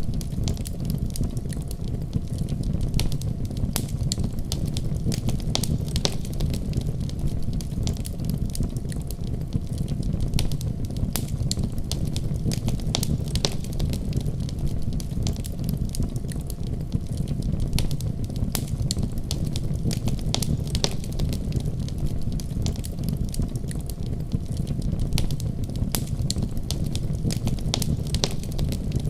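Wood fire crackling in a fireplace, with many sharp irregular pops and snaps over a steady low rumble.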